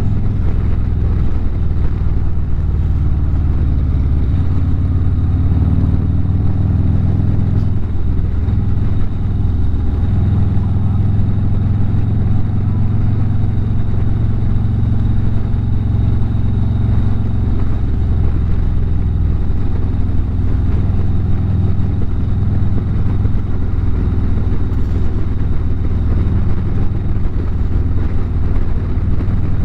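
Harley-Davidson V-twin motorcycle engine running at a steady cruising speed on the road, with a steady low drone and little change in pitch.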